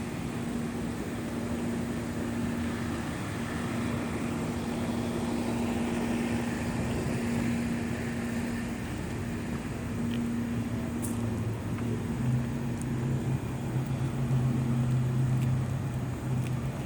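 Steady hum of a vehicle engine over outdoor background noise; a second, lower engine hum joins about eleven seconds in and runs almost to the end.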